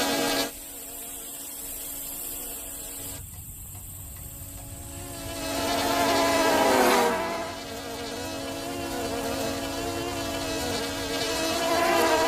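Cartoon insect wings buzzing, a steady droning hum that wavers in pitch and swells louder around the middle and again near the end.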